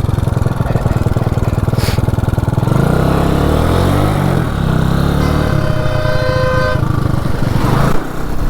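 Motorcycle engine running as the bike rides off, its note rising and falling around the middle as it picks up speed. A horn sounds once for about a second and a half.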